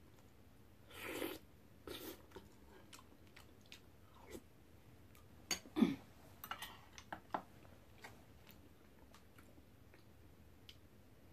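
Close-up eating sounds: a person chewing a mouthful of red bean porridge with rice-dough balls, in scattered short bursts with a few light clicks, the loudest about six seconds in.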